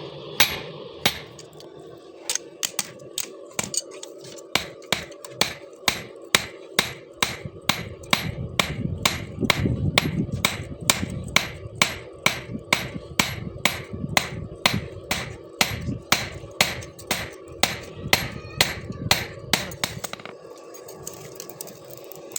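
Hand hammer forging pieces of bearing-ring steel into knife blades: a steady run of sharp blows, about two to three a second, over a steady hum.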